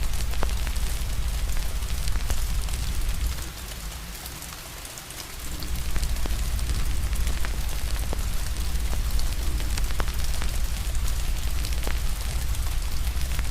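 Steady rain mixed with a wood fire crackling, with scattered sharp pops over a deep low rumble. The rumble drops away for a couple of seconds about four seconds in, then returns.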